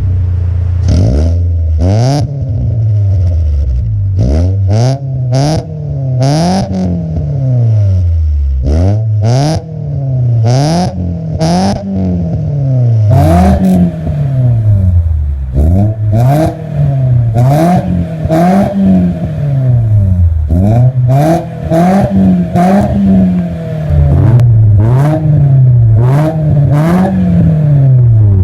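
Mitsubishi Lancer engine through an aftermarket full exhaust system, revved repeatedly: more than a dozen quick throttle blips, each rising and falling in pitch, about one every one and a half to two seconds. Sharp cracks from the exhaust come around many of the revs.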